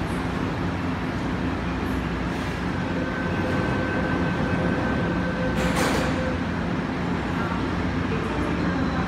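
Hong Kong MTR Ma On Shan Line C-train running with a steady rumble. A faint steady whine comes in from about three to six seconds in, and a short hiss sounds near six seconds.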